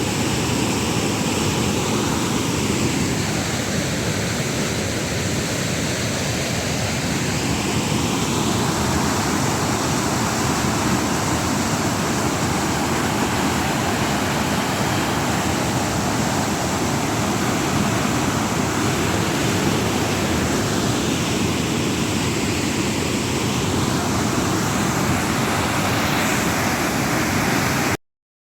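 Waterfall rushing with a steady, loud roar of falling water, cutting off suddenly near the end.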